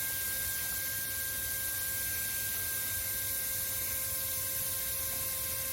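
Steady hum and hiss with a few faint, unchanging whining tones, holding level throughout with no distinct events.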